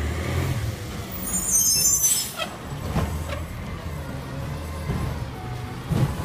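Recycling garbage truck's engine running steadily, with a loud hiss of air about a second and a half in, like an air brake releasing, and a few short knocks after it.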